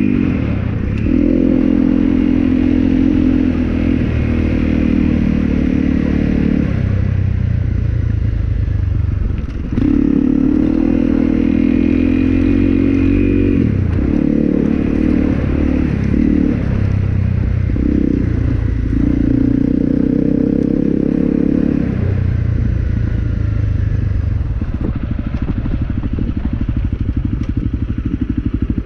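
Motorcycle engine running while riding, its note shifting in pitch and breaking off several times with throttle and gear changes, then holding steadier over the last few seconds.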